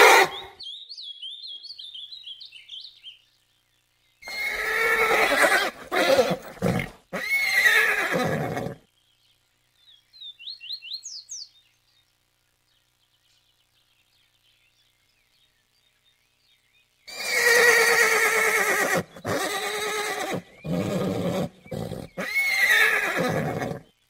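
Horse neighing: one long whinny about four seconds in and another from about seventeen seconds in, each broken into several short parts.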